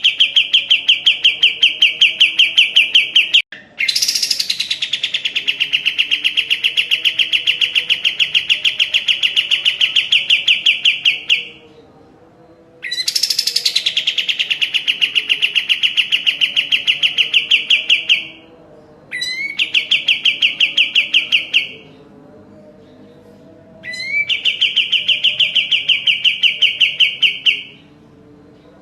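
Kapas tembak singing in long bouts of rapid, evenly repeated high notes. Each bout opens with a quick rising note. There are five bouts of about 3 to 8 seconds each, with short pauses between them. This is the bird in full song, recorded as a masteran for training other songbirds.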